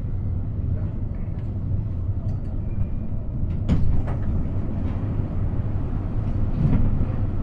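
Steady low hum inside a CAF AS-14 metro car standing at a station, with a couple of sharp clicks about halfway through.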